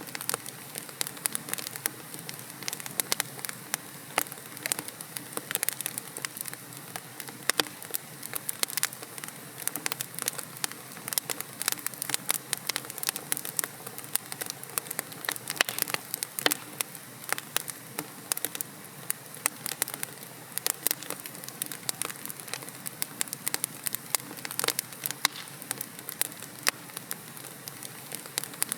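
Wood logs burning in a fireplace, crackling with frequent sharp irregular pops over a steady soft hiss of the flames.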